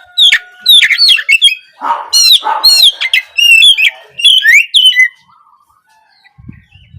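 Oriental magpie-robin singing: a fast run of loud whistled and chattering phrases with sharp upward-sweeping notes, breaking off about five seconds in and starting again at the very end.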